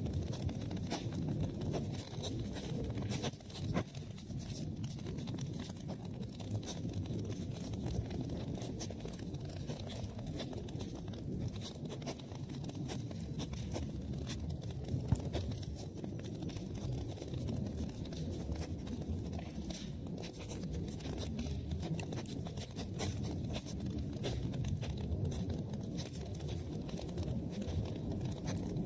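Wood fire burning in a fireplace: a steady low rush of flames with frequent small crackles and pops, and one sharper pop about halfway through.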